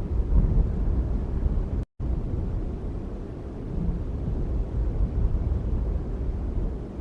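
Steady low rumble of outdoor background noise on the camera's microphone, with a brief dropout to silence about two seconds in.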